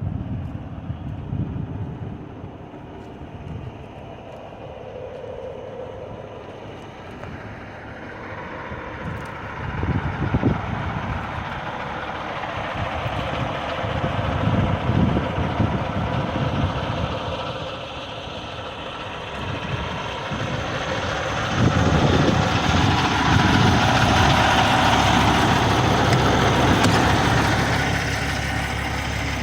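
Kenworth W900L semi truck's diesel engine running, swelling louder in stretches and loudest for several seconds near the end.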